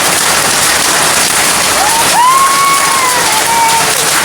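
Heavy rain with hail pelting down in a steady, loud hiss and patter. About two seconds in, a brief pitched call rises and holds for about two seconds over it.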